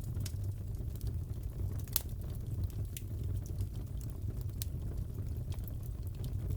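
Crackling wood fire in a fireplace: a steady low rumble with scattered sharp crackles and pops, one louder pop about two seconds in.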